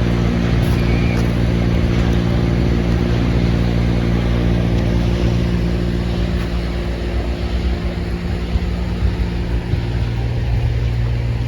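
A large machine running steadily: a low, even motor hum under a loud rush of noise.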